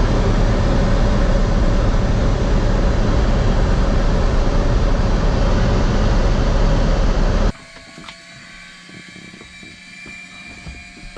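Light aircraft engine and propeller running steadily, heard loud and close. About seven and a half seconds in it cuts off abruptly, leaving a much quieter steady hum with a few faint tones.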